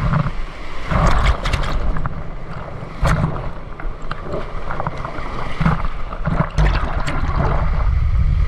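Water splashing and gurgling unevenly, with wind buffeting the microphone in gusts and a few sharp clicks.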